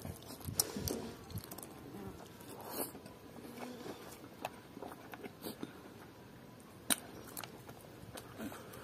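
A man chewing and smacking his lips as he eats rice and pork curry with his fingers: scattered short mouth clicks and smacks, one sharper smack about seven seconds in.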